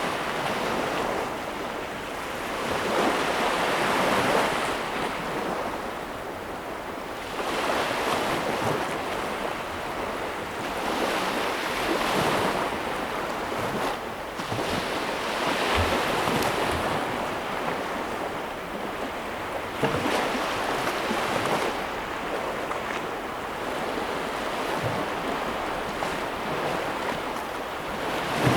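Ocean waves breaking and washing on a shore, the surf swelling and fading every few seconds, with a steady rush of wind beneath.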